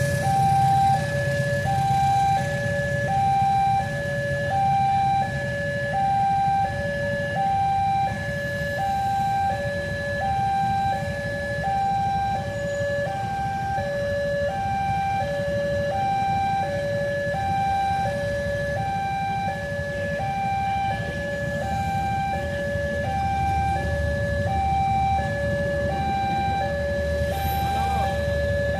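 Railway level-crossing warning alarm sounding a steady two-tone high-low chime, about one pair a little over every second, over a low engine rumble that swells near the end.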